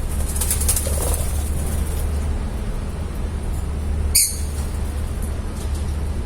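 Lovebirds: a quick flutter of wings near the start and one short, sharp chirp about four seconds in, over a steady low rumble.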